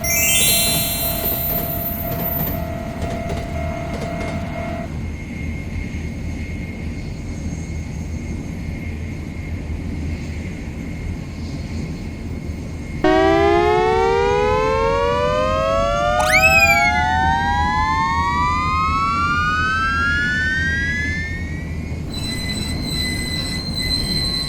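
Train running sound: a steady low rumble, with a steady tone that stops about a fifth of the way in. About halfway in, a louder whine of several tones comes in and rises slowly and steadily in pitch for several seconds, broken once by a short chirp that shoots up and falls back. Near the end, steady high tones take over.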